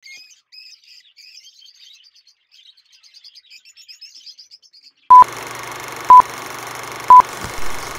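Small bird chirping in quick short notes for about five seconds. Then a steady hiss comes in suddenly, with three loud, short, single-pitch beeps about a second apart.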